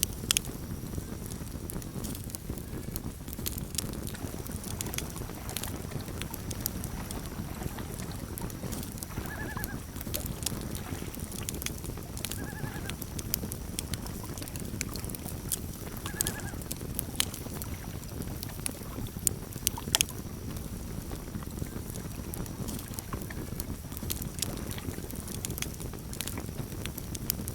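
Campfire crackling, with scattered sharp pops over a low steady rumble; the loudest pop comes about twenty seconds in. Three short high calls sound a few seconds apart near the middle.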